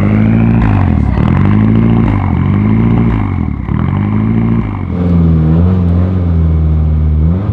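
1991 Lancia Delta Integrale rally car's turbocharged four-cylinder engine being revved, about four quick blips up and down, then held at higher revs for a couple of seconds before dropping back near the end.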